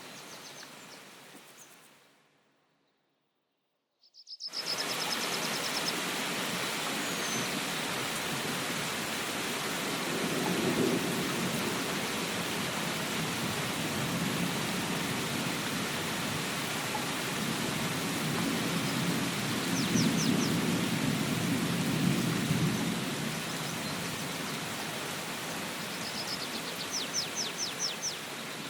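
Steady rain hiss that fades out to silence for about two seconds shortly after the start, then returns. Low thunder rumbles twice, once about a third of the way in and once at greater length past the middle. Short runs of high bird chirps come just after the rain returns and near the end.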